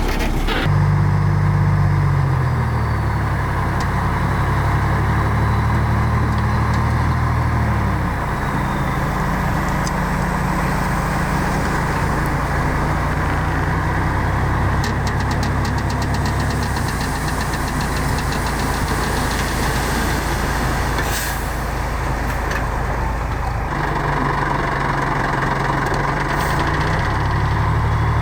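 Heavy diesel engine of earthmoving machinery running continuously, its engine speed changing several times: it drops about two seconds in, shifts again near eight seconds, and rises once more near the end.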